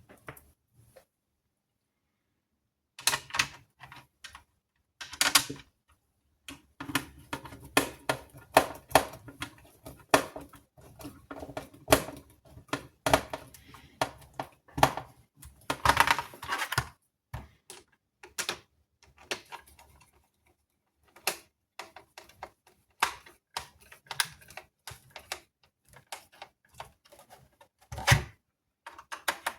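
Irregular clicks, taps and light knocks of small hard parts and tools being handled on a workbench during an electronics repair, starting a few seconds in and running in quick uneven clusters.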